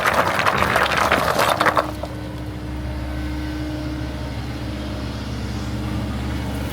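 An engine running steadily, with a loud burst of clattering, scraping noise in the first two seconds.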